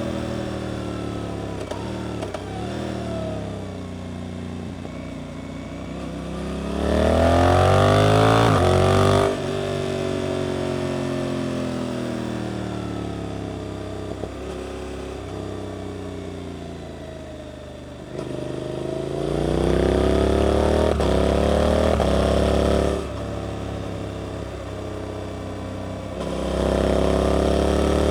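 Suzuki GSX-8S 776 cc parallel-twin engine, heard through an Arrows aftermarket exhaust, accelerating hard three times with the pitch rising each time, about a quarter of the way in, about two-thirds in, and near the end. Between the pulls the throttle is closed and the revs fall away on the overrun.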